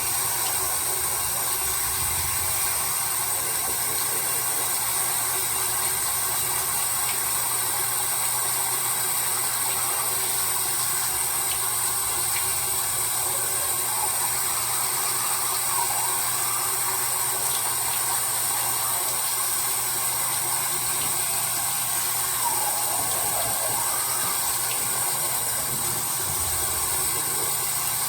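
Water running steadily from a bathroom tap, an unbroken hiss.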